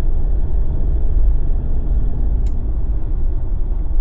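Jeep driving on snow tires: a steady low rumble of engine and tyres on the road, with one short click past halfway.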